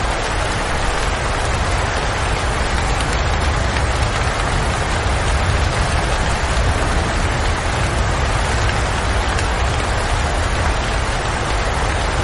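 Steady rain falling, an even hiss with a low rumble underneath and no pauses.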